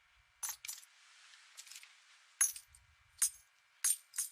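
A string of about seven light metallic clinks and clicks, irregularly spaced, over a faint hiss: film sound effects.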